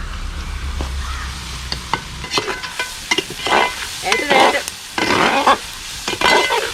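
Onions, chillies and tomato sizzling in hot coconut oil in a pan while a ladle stirs and scrapes them, in a series of stirring strokes about once a second in the second half.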